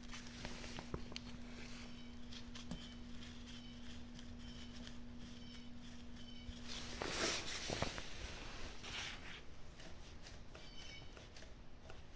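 Faint handling noises from adjusting a pair of carburetors on the bench, with small scattered clicks and a louder rustle about seven seconds in. A faint steady hum runs underneath and stops at about the same time.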